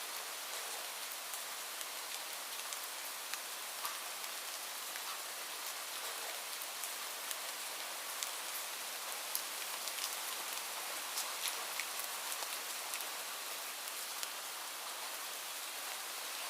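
Steady rain falling, a continuous hiss with many individual drops pattering and ticking through it.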